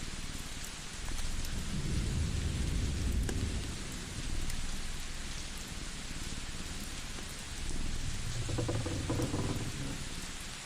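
Steady crackle and hiss of a wood fire, with scattered small pops. A low rumble swells up twice, about two seconds in and again near the end.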